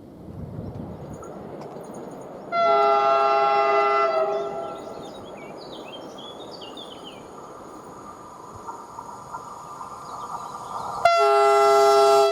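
Train horn blown twice: a blast of about a second and a half, then a second blast beginning about a second before the end, each sounding several tones at once.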